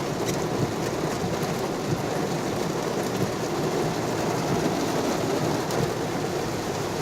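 Heavy rain pouring down steadily: a dense, even wash of falling water with a few sharper drop ticks.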